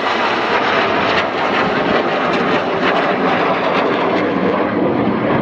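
Jet engines of a formation of BAE Hawk T1 jets flying past, a loud, steady jet noise without a break.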